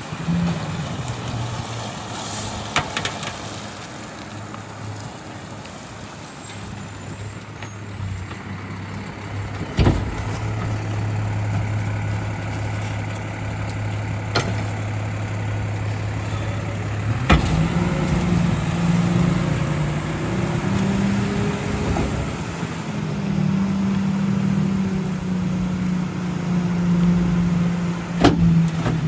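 Garbage truck's diesel engine running. About halfway through it speeds up and holds the higher speed, as when the packer's hydraulics are working. A few sharp knocks are heard along the way.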